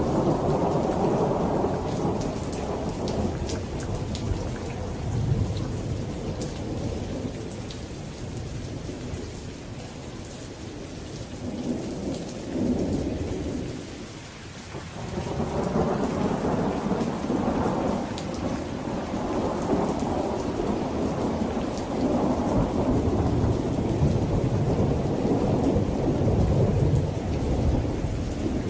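Thunder rumbling over steady rain. The rumble eases off toward the middle and swells again for the second half, with patters of raindrops on top.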